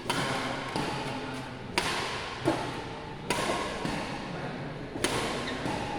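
Badminton rally: rackets striking a shuttlecock about six times at irregular intervals, each hit a sharp crack with a short echo of a large hall.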